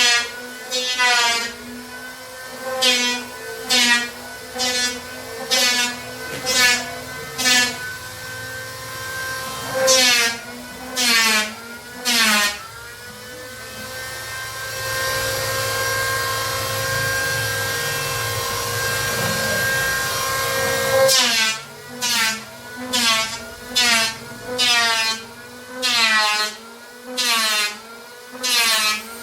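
Sandpaper rubbed by hand along the cut edge of plywood to smooth it, in rasping back-and-forth strokes about one a second. The strokes pause for several seconds near the middle, leaving a steady hiss, then start again.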